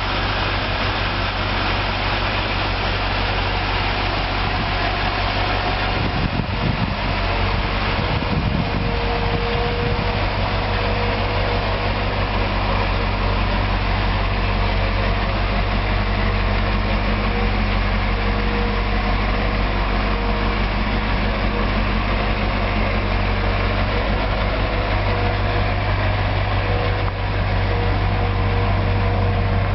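Propane-fuelled engine of a GMC C7500 medium-duty truck idling steadily.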